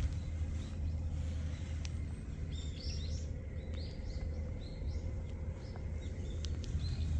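Small birds giving a run of short, high chirps from about two and a half seconds in until near the end, over a steady low rumble of outdoor background noise.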